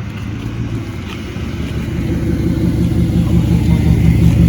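A 2016 Dodge Charger R/T's 5.7-litre Hemi V8 runs at a warm-up idle with a pulsing low beat. It grows steadily louder from about a second and a half in.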